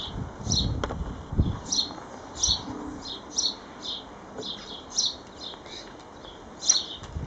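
Small songbird chirping over and over, short high notes coming several times a second. A low rumble runs under it for the first second and a half.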